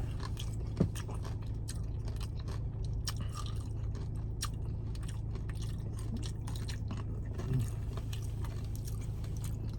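Close-miked chewing of spicy beef nachos: crunching tortilla chips and wet mouth clicks, with a couple of short low hums from the eater, over a steady low background hum.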